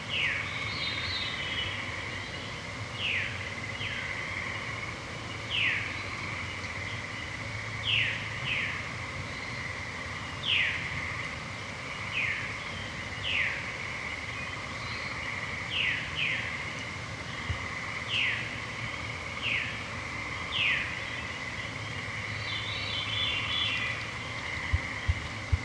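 A forest evening chorus: a bird repeats short downward-slurred call notes every second or two over a steady high-pitched drone. Another bird twitters briefly just after the start and again near the end. A couple of soft low knocks come near the end.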